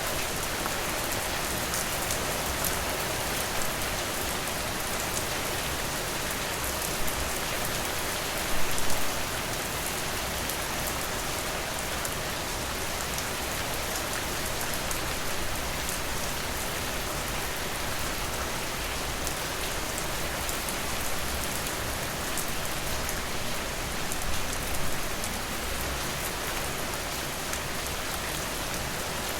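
Steady rain falling, a dense even patter of drops on a surface, with a couple of brief louder flurries of drops, about nine seconds in and again near the end.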